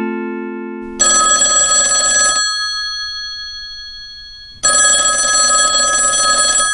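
Old-fashioned telephone with a mechanical bell ringing twice, each ring a rattling burst of about a second and a half to two seconds, the first starting about a second in. At the start, the last notes of a short descending xylophone-like chime ring out.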